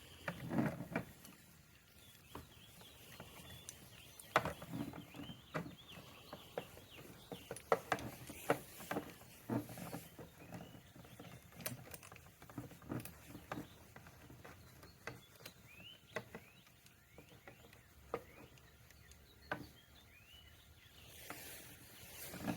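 Scattered light clicks and knocks of hand work on a Yamaha Riva 125 scooter's throttle cable and handlebar parts as the cable is threaded back into place.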